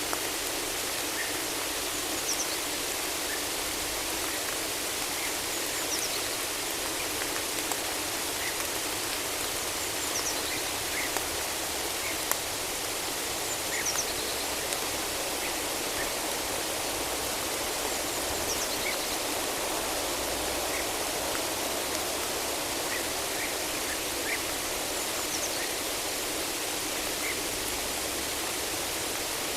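Steady rain falling in a forest: an even, dense hiss with scattered drip ticks. Short high bird chirps come through every few seconds.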